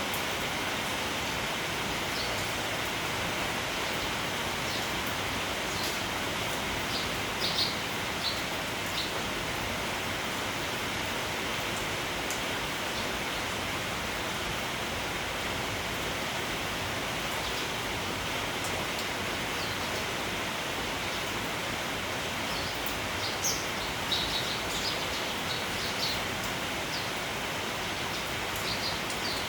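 Steady rain hiss with sparrows chirping in short bursts, busiest about a quarter of the way in and again near the end.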